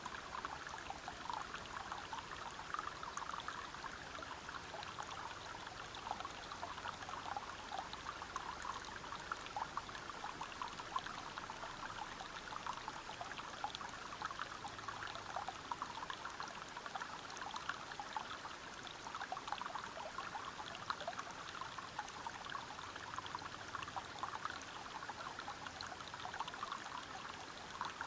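Water flowing and splashing over rocks in a small waterfall and stream, a steady rush full of fine, rapid splashes.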